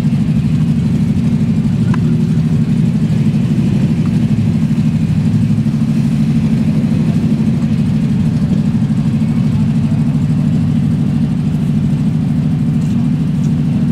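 A car engine running steadily at an even idle, with no revving.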